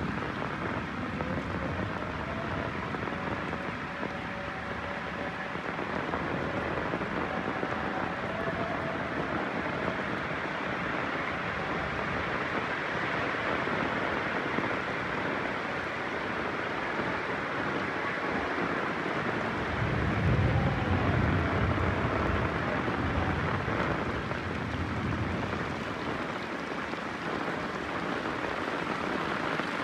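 Heavy rain falling steadily, with a low roll of thunder about two-thirds of the way through.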